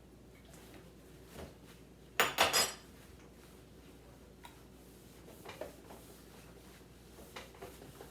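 Kitchen dishes and containers clattering: a quick cluster of three or four ringing clinks a little over two seconds in, with a few lighter knocks and taps later.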